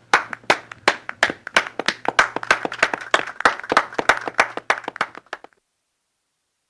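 Hand clapping after a song ends: a quick run of sharp claps, a few a second, over a faint low hum. They fade slightly and stop about five and a half seconds in.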